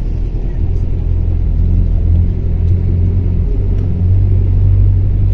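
Steady low rumble of a motor vehicle in motion, heard from on board.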